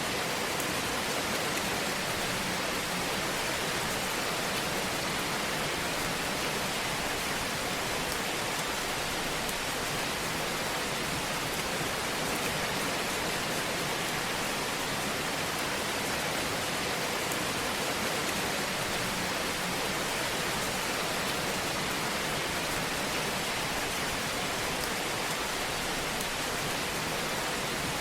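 Wood fire burning in a fireplace: a steady, dense hiss and fine crackle at an even level.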